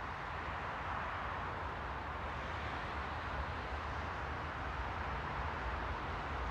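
Steady rushing ambient noise with a low rumble underneath, slowly growing a little louder, with no distinct events.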